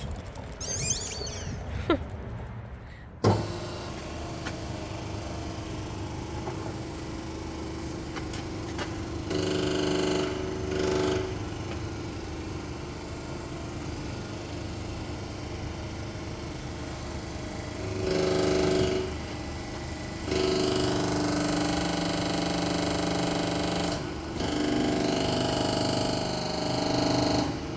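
Electric hydraulic press running, its steady pump note swelling into louder, strained stretches several times as it bends steel plate: about ten seconds in, around eighteen seconds, and through most of the last eight seconds.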